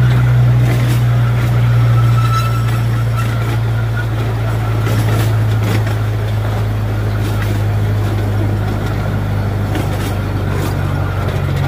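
Small tourist ride train running downhill: a steady low engine drone, with scattered clicks and a faint high squeal about two to three seconds in.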